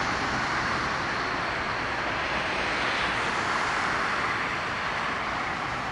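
Jet engine noise from a WestJet Boeing 737-700 with CFM56-7B turbofans passing the runway: a steady rush that slowly fades toward the end.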